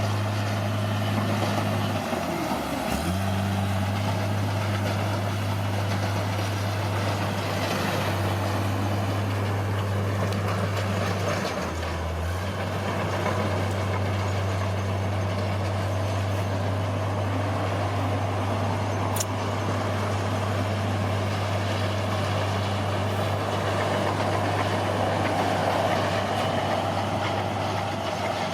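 Heavy diesel engine of earthmoving machinery running steadily. Its note dips briefly twice, once about three seconds in and again about twelve seconds in.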